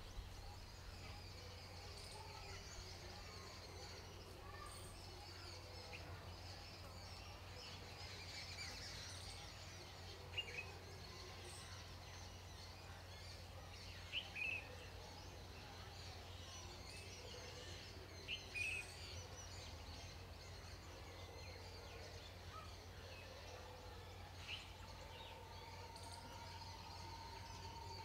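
Faint outdoor ambience over a steady low hum, broken by short bird chirps now and then, a few seconds apart.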